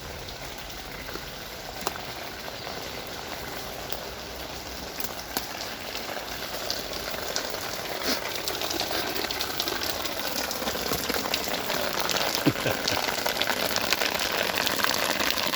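Rainwater falling from the viaduct and splashing onto the ground, a hissing patter with scattered drips that grows steadily louder.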